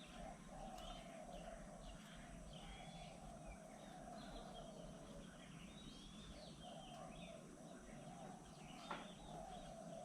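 Faint birdsong: many short chirps and calls from several birds, over a lower broken hum, with one sharp click about nine seconds in.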